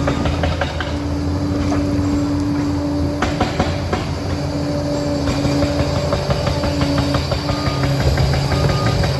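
Liebherr 746 crawler dozer working, its engine running steadily with a whine from the drive and its steel tracks clanking continuously. Short reversing-alarm beeps sound near the end.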